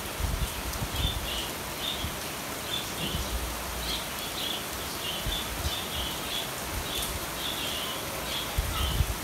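Steady heavy rain falling, with a small bird chirping repeatedly over it.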